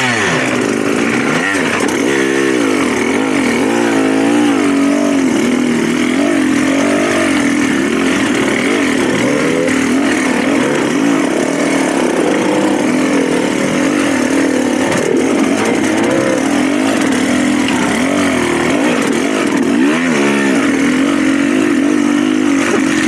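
Dirt bike engine running continuously during a trail ride, the revs rising and falling again and again as the rider works the throttle.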